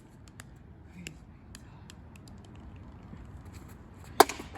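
Faint scattered ticks over low background noise, then about four seconds in a single sharp crack of a bat hitting the pitched ball, fouled off.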